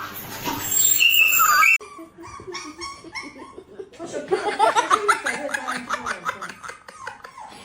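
A pet's whining, pitched cries: a few gliding calls in the first two seconds, then a long run of short cries in quick succession.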